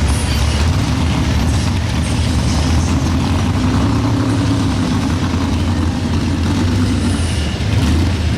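Modified pulling tractor's engine running loud and steady, with a slight rise and fall in pitch midway.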